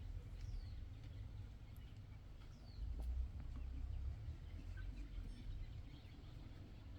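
Outdoor rural ambience: a low, uneven rumble with two short falling bird chirps and a single click about three seconds in.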